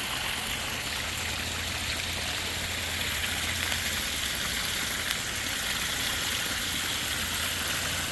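Garden pond waterfall, water splashing and running steadily, with a low steady hum underneath.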